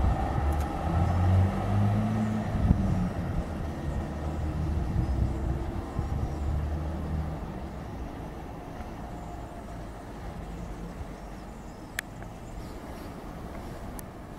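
Trenitalia Frecciabianca electric train running past: a rumble with a low hum that shifts in pitch early on, fading away over the second half as the train leaves. A single sharp click sounds near the end.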